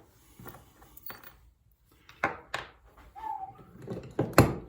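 Clatter and sharp knocks of tools and small parts being moved about while rummaging for a hex bit, sparse at first, then a run of knocks from about halfway, the loudest just before the end.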